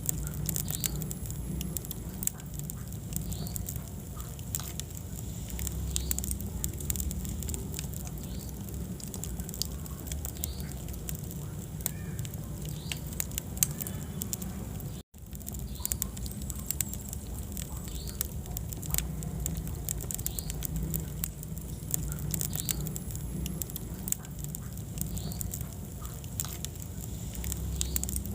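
Wood fire burning in a fireplace: steady low rumble of the flames with frequent sharp crackles and pops of burning logs. The sound drops out for an instant about halfway through.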